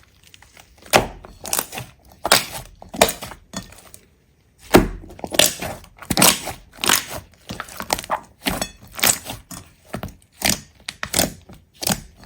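A series of crisp cracks and crunches, something brittle being broken or crushed, about one to two a second, with a short pause about four seconds in.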